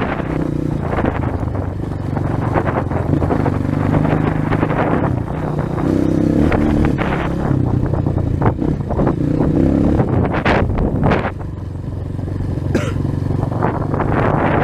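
A 230 cc single-cylinder trail motorcycle engine running under changing throttle, its pitch rising and falling, with several sharp rattles from the bike and wind rushing on the microphone.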